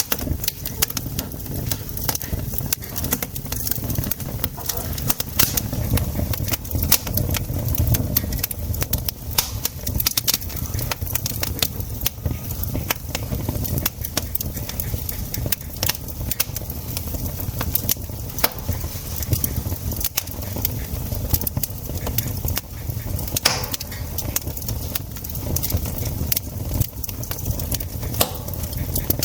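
Wood campfire crackling, with many sharp irregular pops over a steady low rumble.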